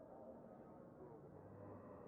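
Faint murmur of a crowd, many voices overlapping with no single one standing out.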